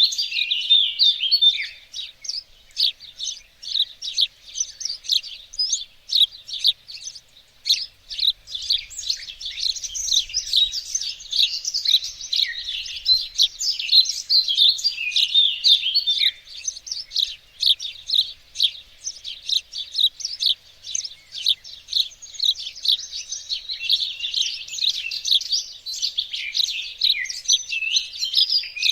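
Garden songbirds chirping and singing without a break, a dense chorus of many quick high chirps and trills overlapping one another.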